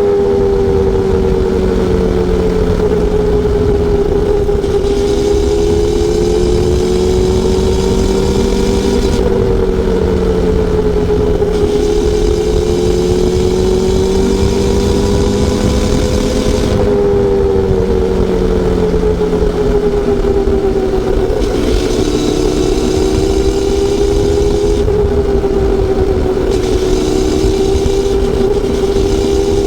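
Honda CB400SF Super Four's inline-four engine and exhaust running at a steady cruise, its pitch rising and falling gently with small throttle changes. A hiss comes and goes every few seconds over the engine.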